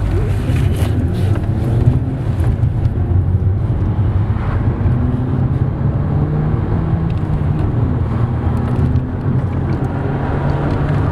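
BMW 116i's 1.6-litre four-cylinder petrol engine running while the car is driven, heard from inside the cabin with road noise; the engine note rises and falls as the revs change.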